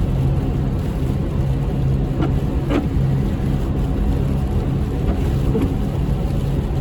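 A motor vehicle running: a steady low engine drone over even road noise, with a few faint clicks.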